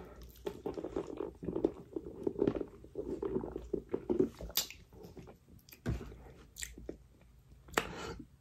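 A person chewing fried chicken close to the microphone: irregular chewing and crunching, with a few sharper crunches about halfway through and near the end.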